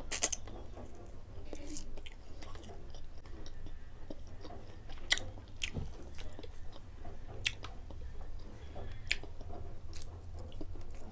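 Close-up chewing and biting of grilled pork barbecue meat, with sharp wet mouth clicks now and then over a steady low hum.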